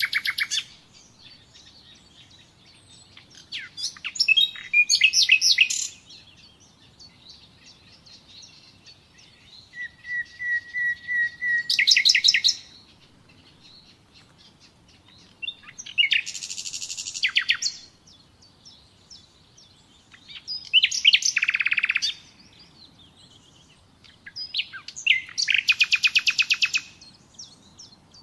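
Nightingale singing in separate phrases of whistles and fast rattling trills, about six of them with pauses of two to three seconds between. One phrase begins with a run of repeated piping notes that breaks into a fast trill.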